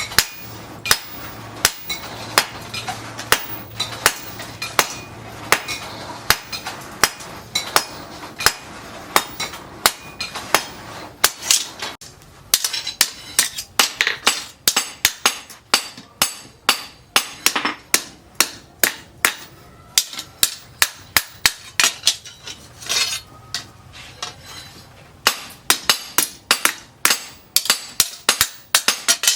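Hand hammer striking steel on an anvil in a long run of sharp, ringing blows, about two a second at first and quicker, three to four a second, in stretches later on.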